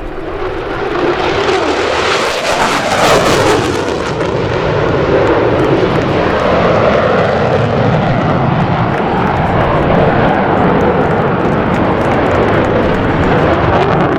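F-16 Fighting Falcon's General Electric F110-GE-129 afterburning turbofan: loud jet roar that swells to a peak a few seconds in, its pitch falling as the jet passes, then carries on as a steady roar.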